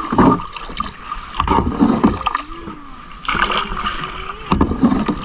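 Kayak paddling in the sea: paddle splashing in the water in irregular strokes, with low rumbling noise between.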